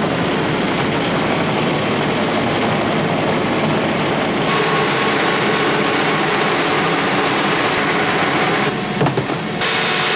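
Farm machine engine running steadily and loud, with a dense, rattly drone. The sound changes abruptly about four and a half seconds in and again near the nine-second mark.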